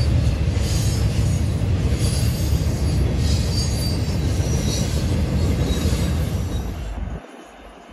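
Double-stack intermodal container train rolling past: a steady, loud rumble of wheels on rail with faint intermittent high squeals from the wheels. About seven seconds in the sound cuts off abruptly to a much quieter background.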